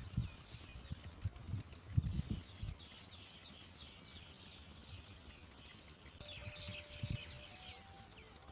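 Small birds chirping: rapid, thin, high chirps that come thickest about three seconds in and again near the end. A few low thuds fall under them at the start, about two seconds in and about seven seconds in.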